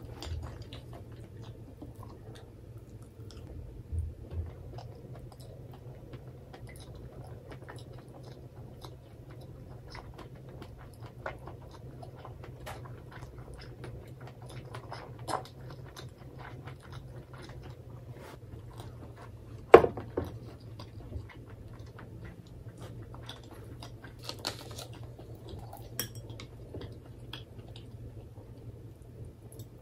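Close-miked chewing of food with the mouth closed, soft wet mouth sounds and faint small clicks. A single sharp knock about 20 s in is the loudest sound. Near the end there are a few light clicks as a plastic bottle and a glass are handled.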